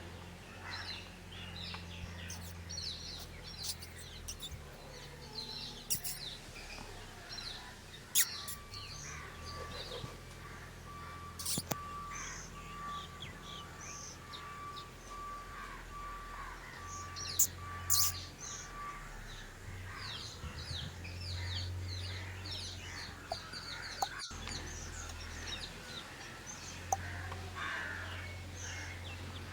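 Birds chirping and calling, many short overlapping calls throughout, with a few sharp clicks and a steady thin tone in the middle.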